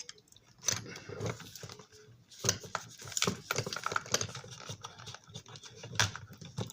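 Irregular clicks, taps and rustles of small model parts and hand tools being handled at a workbench.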